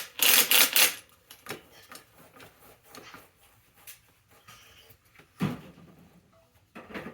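Clattering of objects being handled, loud for about the first second, then scattered light clicks and knocks, with a heavier knock about five and a half seconds in.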